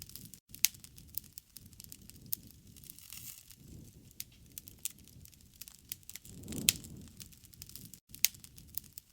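Campfire crackling, with scattered sharp pops over a low rumble of burning wood; the rumble swells with the loudest pop about seven seconds in.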